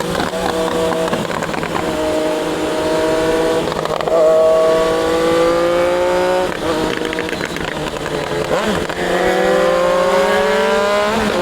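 Triumph Daytona 660's inline three-cylinder engine pulling under steady acceleration, its pitch climbing gradually and breaking at gear changes about every two to three seconds.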